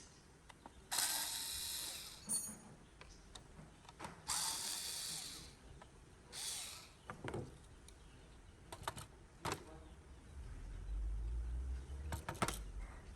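Mechanical tool work: three short rasping bursts of about a second each, separated by sharp clicks and small knocks, with a low rumble near the end.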